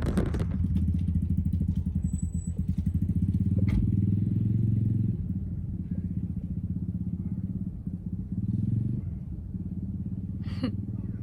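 Apollo DB X18 dirt bike engine running at a steady low idle, dropping a little quieter about five seconds in and picking up briefly near nine seconds.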